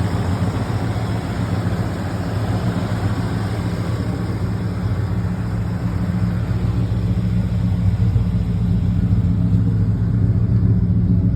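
Ford 460 (7.5-litre) V8 idling steadily with a low, even rumble, through a Magnaflow exhaust.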